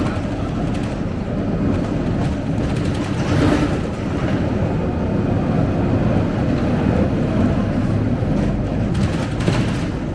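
Scania K270UB single-decker bus heard from inside the cabin while under way: steady diesel engine and road noise with body rattles. Sharper rattles come about a third of the way in and again near the end.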